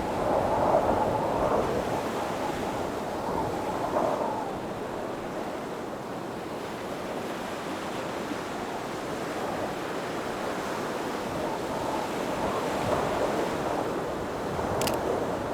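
Sea surf washing in steadily, with wind buffeting the microphone and the surge swelling and easing. A single brief click comes near the end.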